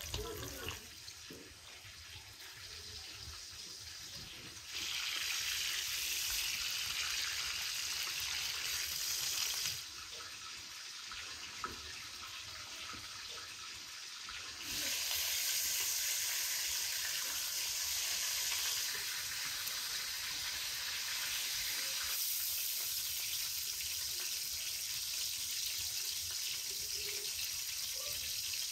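Liver and tomatoes frying in a pot, the juices and fat sizzling steadily. The sizzle jumps louder about five seconds in, drops back near ten seconds, and grows loud again from about fifteen seconds on.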